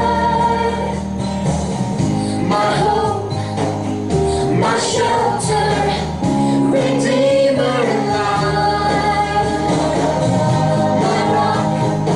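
Worship song: voices singing a slow melody over steady instrumental accompaniment.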